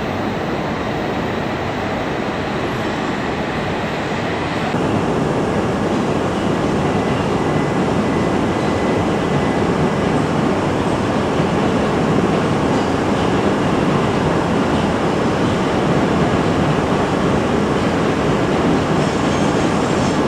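Shinkansen train running alongside the platform: a steady rushing noise that steps up in loudness about five seconds in and stays up, with a faint thin whine above it.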